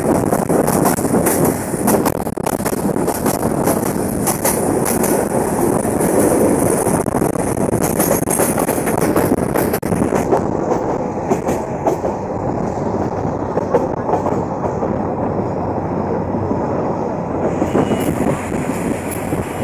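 Bangladesh Railway passenger train running on the tracks: a steady rumble of wheels on the rails, with many sharp clicks during the first half that thin out after about ten seconds.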